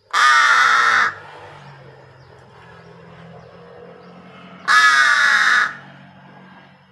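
A pet crow giving two long, harsh caws, one right at the start and another about four seconds later.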